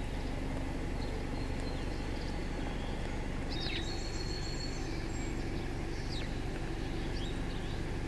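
Steady low rumble and hum with a few short, high songbird chirps and calls, a cluster about three and a half seconds in and more near the end.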